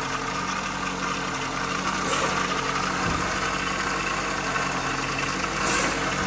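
2003 Ford Focus engine idling with a steady grinding noise from the belt-driven accessories, like a mill turning inside the engine. The noise comes from a failed water pump whose plastic impeller has worn away.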